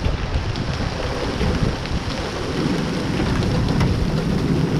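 Heavy downpour of rain mixed with large hail: a dense, steady rush with a deep rumble underneath and many sharp ticks of hailstones striking.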